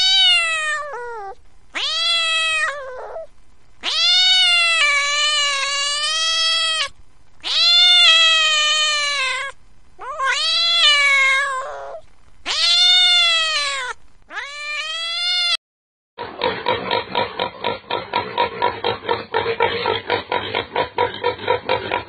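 Cat meowing, seven drawn-out calls one after another, each rising and then falling in pitch, some short and some lasting two to three seconds. After a brief gap about sixteen seconds in, a different sound takes over: a rapid, evenly pulsing noise.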